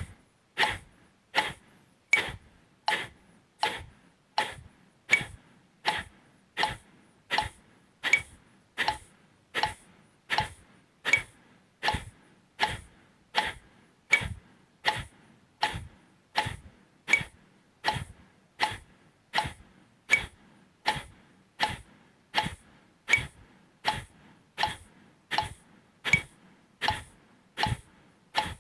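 Kapalabhati breathing: short, forceful exhalations through the nose, one every three-quarters of a second (80 a minute), in an even rhythm.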